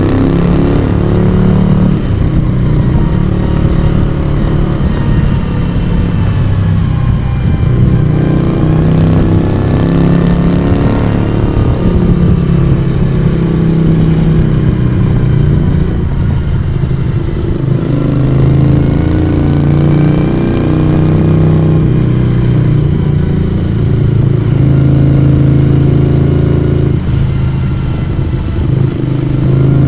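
Moto Guzzi V35's transverse V-twin engine and exhaust under way, the engine note climbing several times as it accelerates and dropping back in steps between climbs.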